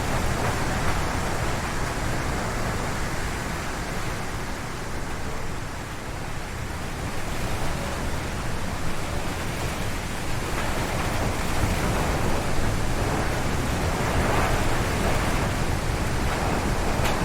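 Strong gusty wind howling through forest trees, a dense rushing noise. It eases somewhat about a third of the way in, then builds again in gusts through the second half.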